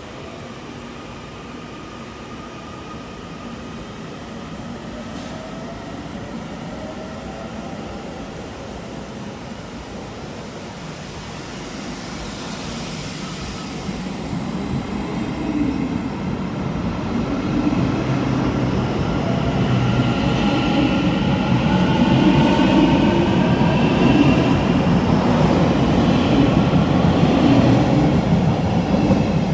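A Taiwan Railways electric train approaching and running by, growing steadily louder. A heavy rail rumble builds up, with whining tones that glide in pitch over it.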